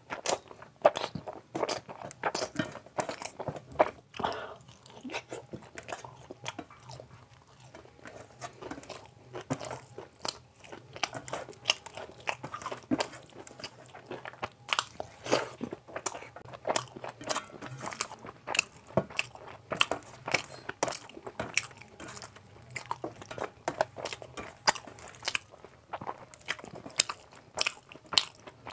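Close-miked chewing and wet mouth smacks of a person eating rice with chicken liver and gizzard curry by hand: a rapid, irregular run of short wet clicks and smacks.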